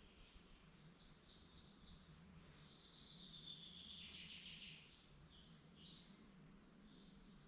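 Faint woodland birdsong over a steady low background hum. About a second in comes a quick run of about five high notes, then a longer trill, then a few short high notes.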